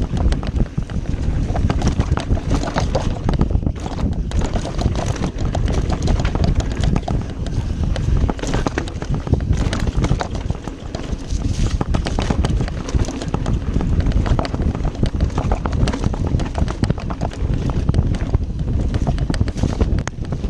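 Full-suspension mountain bike ridden fast over a rough trail: tyres on dirt and the bike rattling with dense, irregular knocks, and wind rushing over the microphone.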